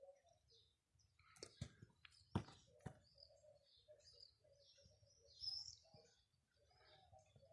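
Faint chirping of small birds, with a few sharp clicks about one and a half to three seconds in.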